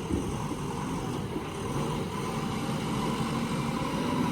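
Diesel engine of a JCB backhoe loader or tractor running steadily under work.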